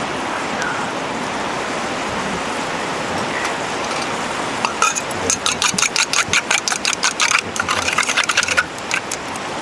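Steady background hiss, and about halfway through a rapid run of sharp clicks, roughly five a second for about four seconds, like utensils clicking against a bowl or dish.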